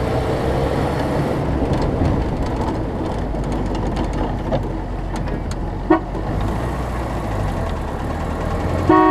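A 1968 Land Rover Series IIA's engine running steadily as it is driven, with a short horn toot near the end.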